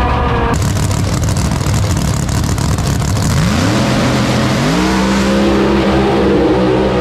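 Drag race cars running at full throttle down the strip, a loud rush of engine noise that cuts in suddenly about half a second in. The engine note climbs twice, then holds steady.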